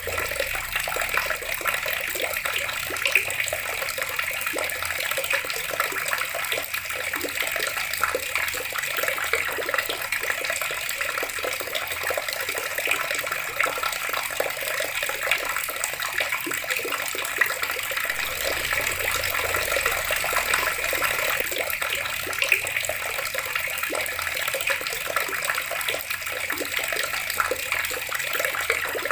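Water running steadily from a tap and splashing, with many small spattering splashes.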